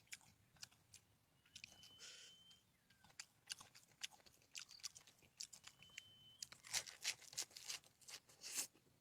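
Close-up chewing with irregular crisp crunches as food is bitten and chewed, the crunches coming thicker in the last few seconds.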